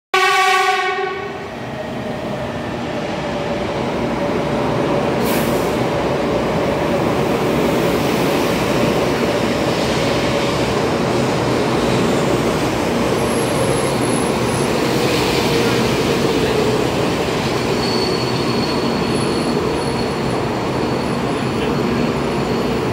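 Taiwan High Speed Rail 700T bullet train sounding a short horn blast as it enters the station, then running along the platform with a loud, steady rush of wheel and air noise and a faint whine that slowly falls in pitch as it brakes. The sound echoes in the enclosed underground platform.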